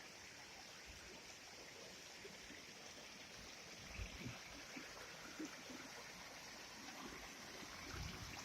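Faint, steady rush of a small stream or waterfall, with a few soft low thumps about halfway through and near the end.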